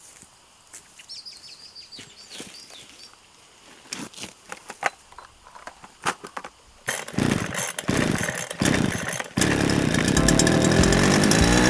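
A small power-tool engine sputters into life about seven seconds in, then runs loud and steady, revving up near the end. Before it there are only faint clicks.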